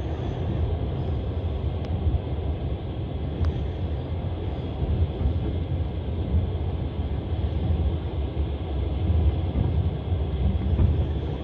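Passenger train running along the rails, heard from inside the carriage: a steady low rumble of wheels and car with a few faint clicks.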